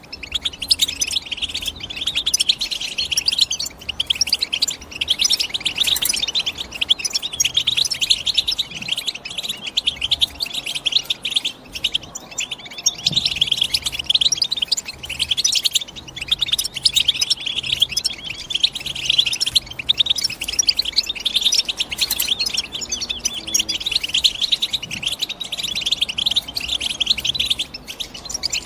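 European goldfinch singing a fast, continuous run of twittering chirps, with short breaks every few seconds.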